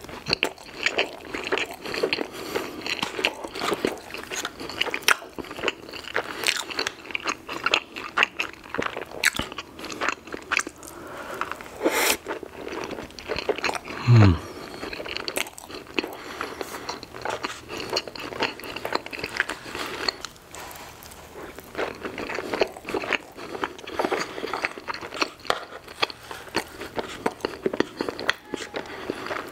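Close-miked wet chewing and lip-smacking of soft, icing-glazed Pizza Hut mini Cinnabon rolls. About halfway through there is a sharp click, then a short low hum that falls in pitch.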